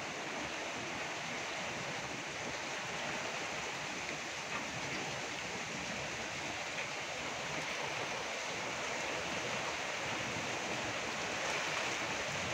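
Heavy rain falling, a steady even rushing hiss with no break.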